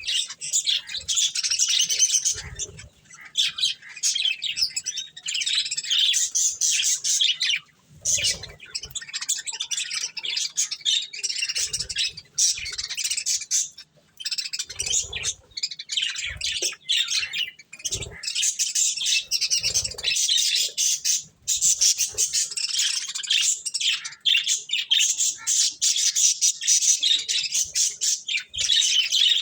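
A group of budgerigars chattering and chirping almost without pause, with occasional harsher squawks. Short soft knocks come and go underneath.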